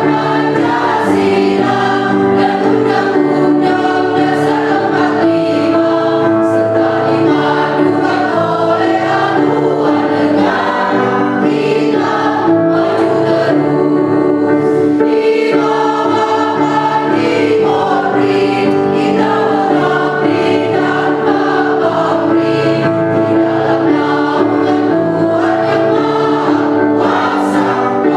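School choir singing a march, many voices together, over a continuous musical accompaniment.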